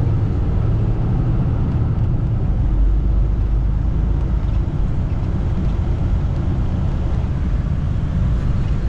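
Semi truck driving, heard from inside the cab: a steady low rumble of engine and road noise.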